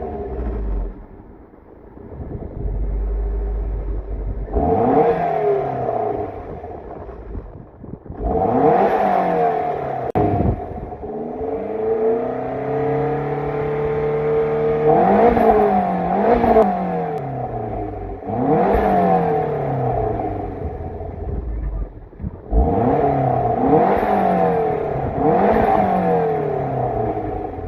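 Toyota MR2 Turbo's fourth-generation 3S-GTE turbocharged four-cylinder engine, breathing through a 3-inch downpipe, Tanabe B-pipe and Greddy SP exhaust, revved up again and again, its pitch climbing and dropping back between lower, steadier stretches.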